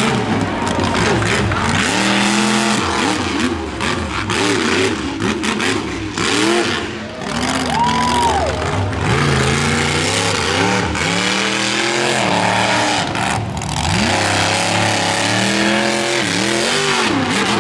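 Smashosaurus monster truck's supercharged V8 revving hard, again and again, its pitch climbing and dropping as the truck is driven through a freestyle run, with a few sharp bangs along the way.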